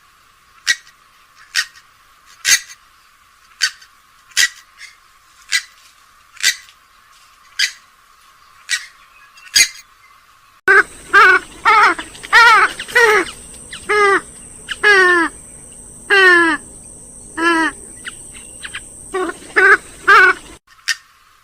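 Recorded rail-family waterbird calls, swamphen and moorhen: short, sharp call notes about once a second, thin with no low end. About ten seconds in, a different recording cuts in with a run of louder, harsher calls that fall and then rise in pitch, about one a second, over a steady hum. Near the end the short notes return.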